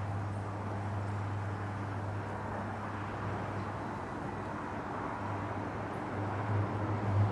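Steady low drone of distant aircraft engines with a rushing hiss, swelling slightly near the end.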